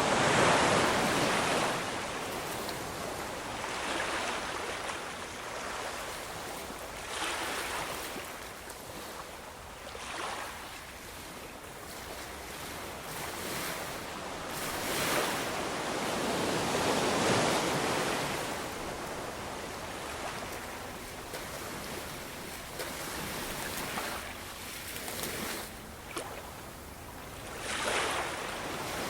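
Ocean waves breaking and washing on a shore, swelling and fading every few seconds, the biggest surges near the start and around the middle.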